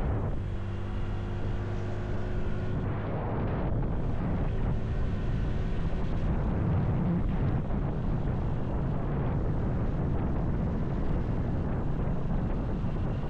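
Motorcycle engine running at a steady speed under the rush of wind on the microphone; the engine hum is clearest in the first few seconds, after which the wind noise takes over.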